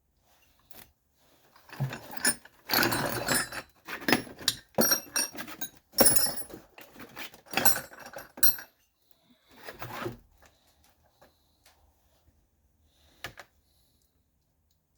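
Small metal hardware such as nuts, washers and bolts clinking and rattling as it is handled and sorted. There are several bursts of jingling, then scattered quiet clicks and a single sharp click near the end.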